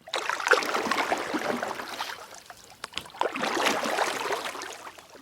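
Water splashing and gurgling in two swells, with a sharp knock between them.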